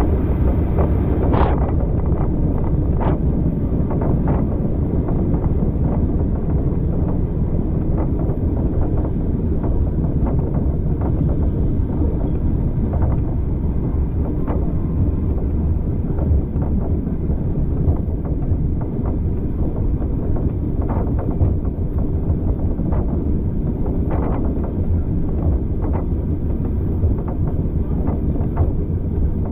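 Moving train heard from on board: a steady low rumble of the carriage running along the track, with wind buffeting the microphone and scattered sharp knocks.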